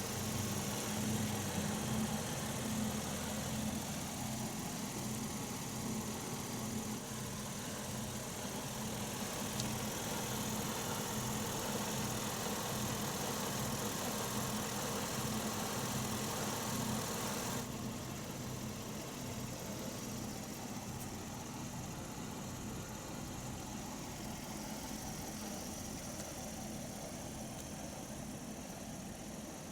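Land Rover Discovery's 3.0-litre supercharged V6 idling steadily, with an even low hum. A higher hiss over it drops away suddenly a little over halfway through.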